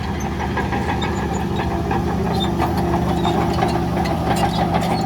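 Diesel engine of heavy earthmoving machinery running steadily, with scattered clicks and clanks over it.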